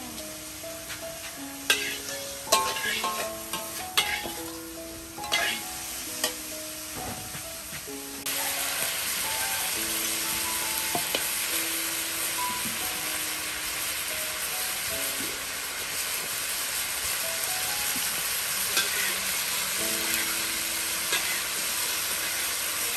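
Meat stir-frying in a large steel wok, stirred with a metal spatula. Sharp clinks and scrapes come through over light background music at first. About eight seconds in, a loud steady sizzle starts abruptly and continues to the end, with the music faintly underneath.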